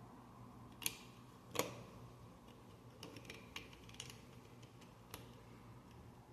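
Plastic Lego bricks clicking and being pressed together: two sharp clicks about a second in, then a scatter of lighter clicks and taps.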